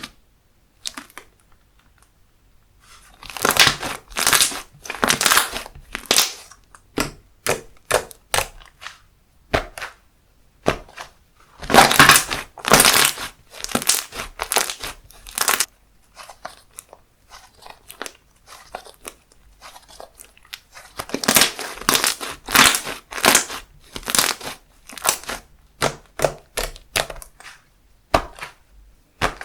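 Handmade slime squished and pressed by hand, giving dense crackling, crinkling pops in three spells of a few seconds. Between the spells there are quieter stretches with scattered small clicks.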